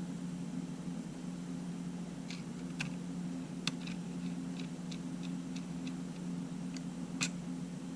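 A run of about ten light, sharp clicks and ticks of small tools and parts being handled in a camera repair, the two sharpest about three and a half seconds apart, over a steady low hum.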